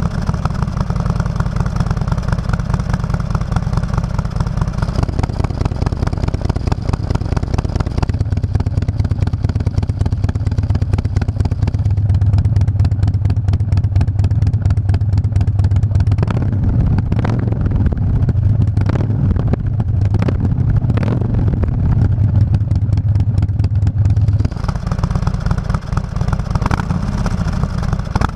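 Harley-Davidson 883 air-cooled V-twin engine running through an aftermarket exhaust. It gets louder and fuller from about 8 seconds in, holds there, then eases back near the end.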